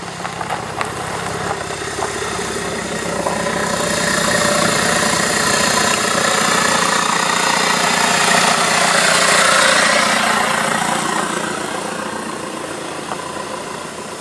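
A car's engine running as the car drives slowly past. It grows louder to a peak about nine or ten seconds in, then fades away.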